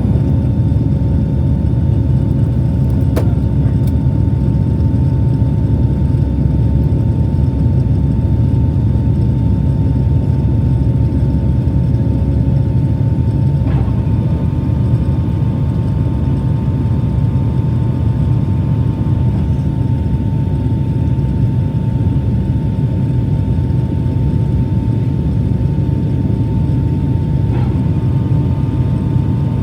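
Airplane engines and airflow making a steady, loud rumble, with a steady whine on top, as the plane climbs after takeoff.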